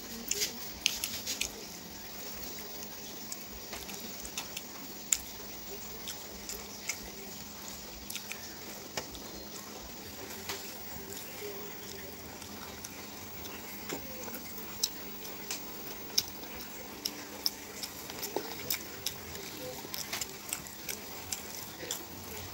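Irregular wet clicks and smacks of chewing and mouth sounds from a person eating fried chicken and rice with the fingers, over a steady hiss and faint hum.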